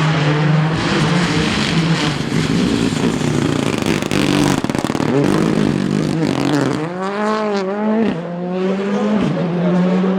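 Rally car engine running hard, revving up and down through gear changes, with quick rises and falls in pitch a little past the middle.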